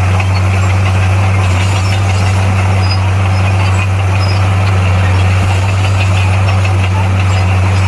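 Diesel engine of heavy earthmoving equipment running steadily, with a deep constant hum and no change in revs.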